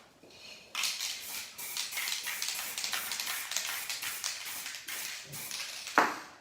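Aerosol spray paint can hissing in a run of short, irregular bursts, with a single knock near the end.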